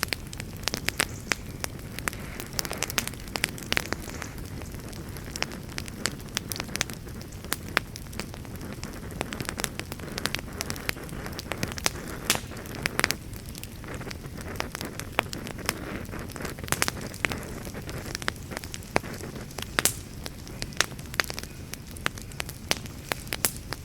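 Wood fire in a fireplace burning steadily, with a soft low rumble of flames and frequent irregular sharp crackles and pops.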